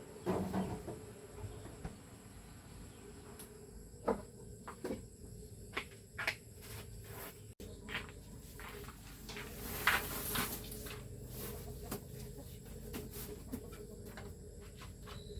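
Scattered knocks and clicks, with a louder cluster of rustling clatter about ten seconds in.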